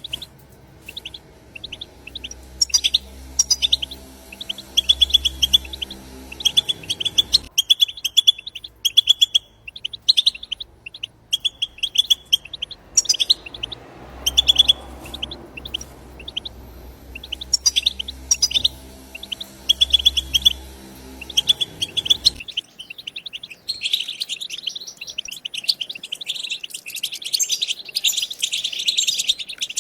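Wild European goldfinches twittering: rapid runs of short, high chirps, turning into a dense, continuous chorus of several birds about 23 seconds in.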